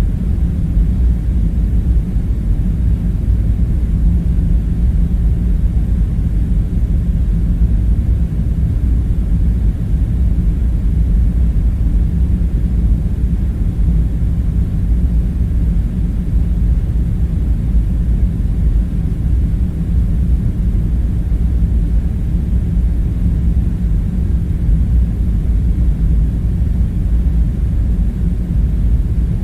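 Steady low rumbling drone of background room tone, even and unchanging, with no distinct events over it.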